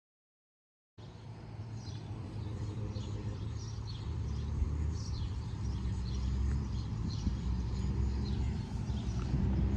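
Motorcycle engine running steadily with a low rumble, starting about a second in and growing slightly louder, while birds chirp repeatedly over it.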